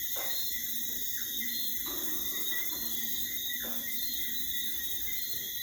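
Steady high-pitched chirring of an insect chorus.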